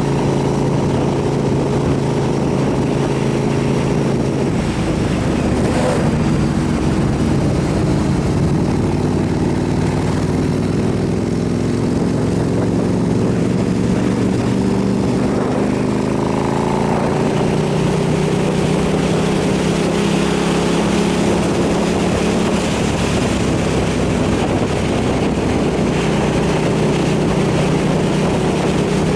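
KTM 990 SMR's V-twin engine running under way. The engine note drops about four to five seconds in, then climbs again a little past halfway and holds higher.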